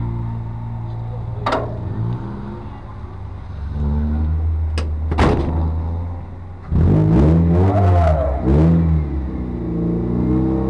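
A car engine running hard through an autocross course, accelerating and lifting off. It gets louder about two-thirds of the way in, where the revs rise and fall several times. A few sharp clicks come earlier on.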